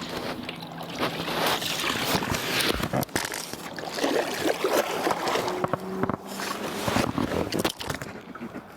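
Water splashing and sloshing, with irregular knocks scattered through it.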